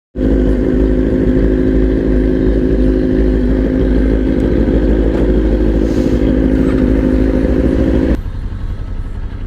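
Motorcycle engine running at a steady speed while riding, holding one even pitch. About eight seconds in it drops to a quieter, lower drone.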